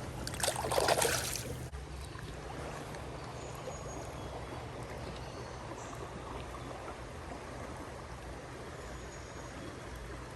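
Steady rushing of a rain-swollen creek, with a short louder burst of noise about half a second in.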